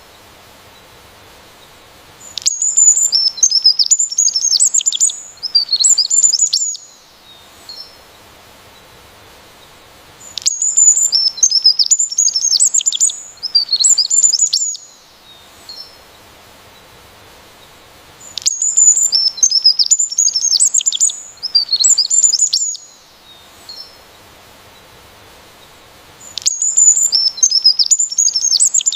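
A songbird singing a fast, high twittering song in bouts of about four seconds, repeating every eight seconds or so with quiet gaps between; each bout is the same phrase.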